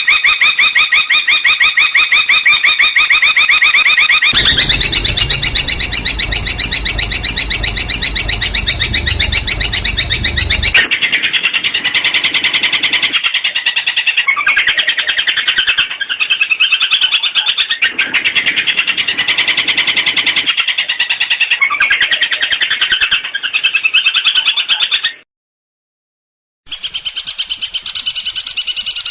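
Long-tailed shrike (cendet) singing fast, rapid trills of repeated notes, the phrase switching abruptly several times. From about 4 to 11 s a harsh low rumble runs under the song. A short break comes near the end before the trilling resumes.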